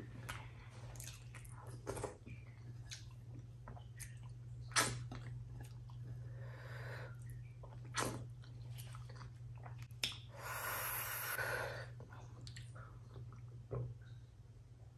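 Close-miked wet chewing and lip-smacking from a mouthful of rice with mashed-potato bharta and daal eaten by hand, with scattered sharp mouth clicks. Near the end comes a sip from a glass.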